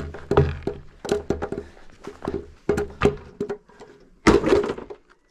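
A run of knocks and clatter from hard objects, with a loud thud about four seconds in.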